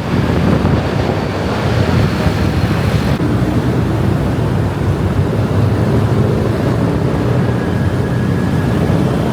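Steady loud rush of wind on the microphone mixed with road and engine noise from a moving motor scooter.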